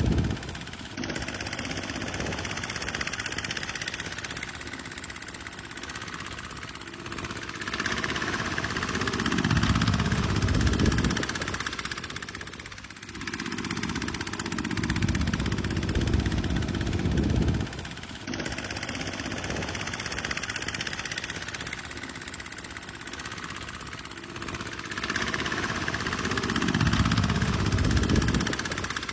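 Tractor engine running steadily while working, swelling louder twice, about a third of the way in and again near the end.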